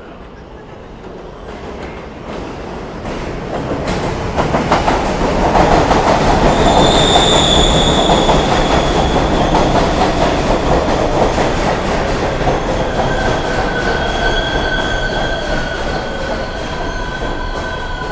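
R142-series New York subway train running past, its wheels clacking over the rail joints. The sound builds for about six seconds, then slowly fades. A high wheel squeal rises partway through, and steady whining tones sound near the end.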